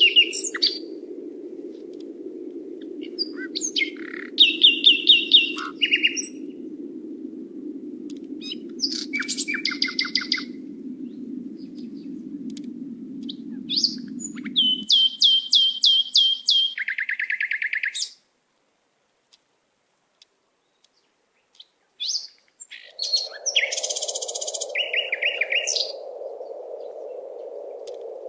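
Birdsong: several birds calling in short chirps, trills and quick runs of repeated notes, over a steady low rushing noise. Everything drops out for a few seconds past the middle, then the birds and the low noise return.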